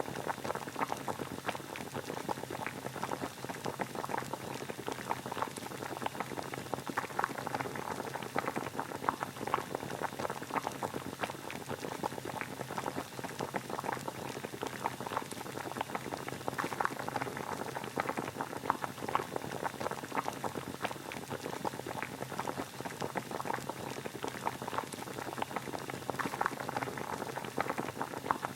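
Water boiling: a steady, dense bubbling made of many small pops.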